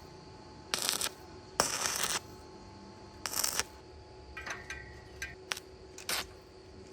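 Metal parts being handled in a workshop: a scattered series of short metallic clinks and scrapes, one followed by a brief ringing tone about two thirds of the way through.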